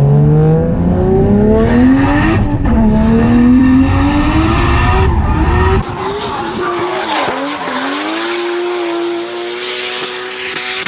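Built Toyota 1JZ straight-six in a BMW drift car revving hard, its pitch climbing, dipping at a shift about two seconds in and climbing again. From about six seconds the sound is quieter, with tyre squeal as the car slides and the engine held at a steady note.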